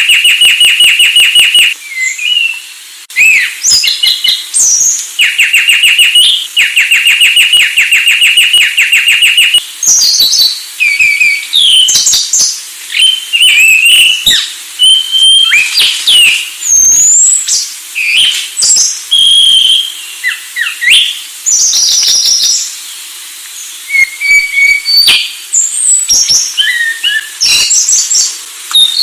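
Anis Sulawesi thrush singing a loud, varied song: runs of fast rattling trills alternating with whistled slurs and sharp chirps, with only brief pauses between phrases.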